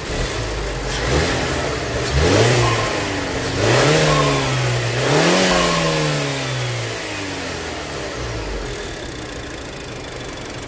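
Turbocharged Mazda 3 four-cylinder with a CorkSport intake, revved four times in quick blips and dropping back to a steady idle, with a whoosh of intake air at the top of each rev.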